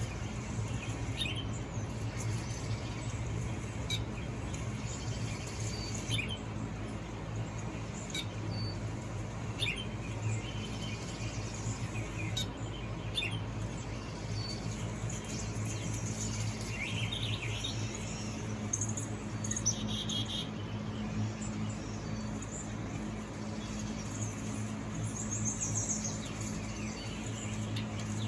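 Recorded birdsong from a bird video playing through a phone's speaker: short, scattered chirps and tweets over a steady low hum.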